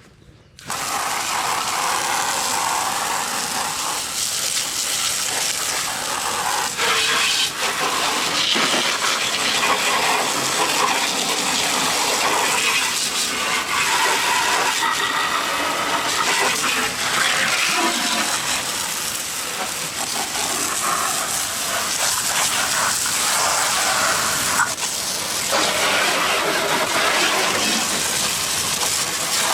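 Water spraying from a hose, starting abruptly under a second in, with a hiss that rises and falls as the spray moves across the lawnmower deck.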